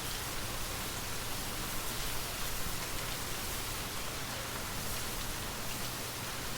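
Steady gentle rain falling, a continuous hiss with faint scattered drop ticks, together with light wind.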